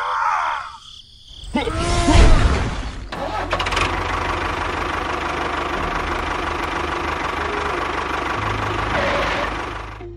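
Short pitched sounds that rise and fall, and a heavy thump about two seconds in; then, from about three seconds in, an engine running steadily, as for a tractor pulling a trailer, fading near the end.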